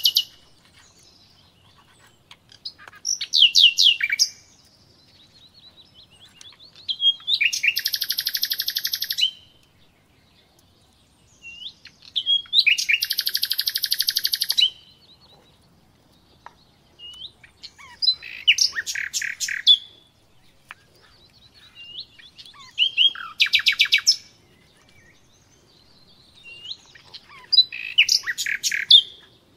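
A small bird singing: six high, fast trilled phrases of one to two seconds each, repeated every four to five seconds.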